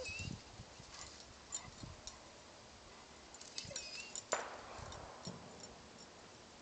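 Golden retriever moving about, with light clinks and ticks like collar tags jingling and soft footfalls; one sharper click about four seconds in.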